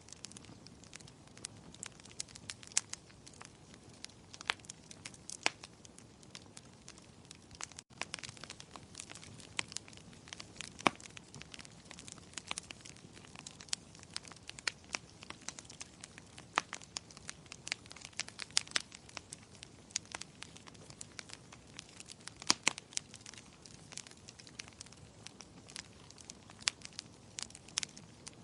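Wood fire in a fireplace crackling: irregular sharp snaps and pops over a soft steady hiss, with a few louder pops, one about eleven seconds in and another about twenty-two seconds in.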